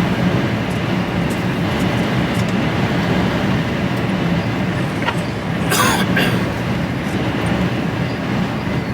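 Steady engine and road rumble inside the cab of a fully laden HGV lorry at speed, with storm wind buffeting the cab. A short hiss about six seconds in.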